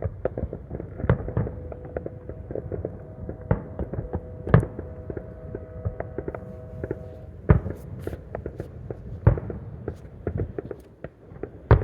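Distant fireworks going off all around: a steady patter of pops and crackles, with louder bangs about four and a half seconds in, at seven and a half, at nine and just before the end. A faint steady tone holds for a few seconds in the middle.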